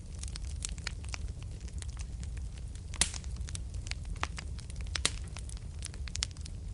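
Wood fire burning in a fireplace: a steady low rumble of flame with frequent sharp crackles and pops, the loudest snaps about three and five seconds in.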